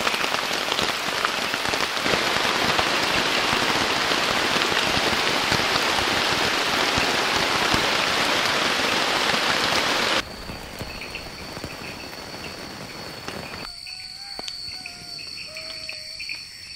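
Heavy rain pouring steadily, cut off abruptly about ten seconds in. After the cut, insects keep up a steady high-pitched drone with small chirps, and a few short whistled calls come in near the end.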